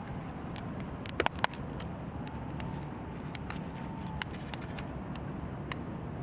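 Steady low outdoor rumble with scattered sharp clicks and crackles, and a quick cluster of louder clacks about a second in.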